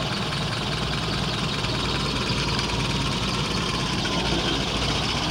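Engine of a restored 1951 Farmall tractor running steadily.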